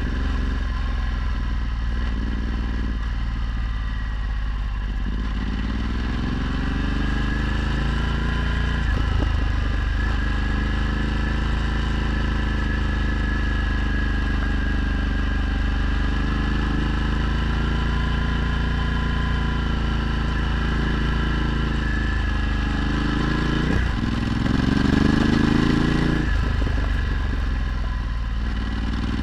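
Ducati Multistrada 1260's V-twin engine, breathing through a Termignoni exhaust, running while riding, its pitch drifting up and down with the throttle. There are two brief breaks, about nine seconds in and again after about 24 seconds, that sound like gear changes, and the revs climb after the second.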